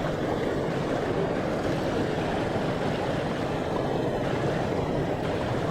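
Steady rushing of creek water, an even, constant wash of noise.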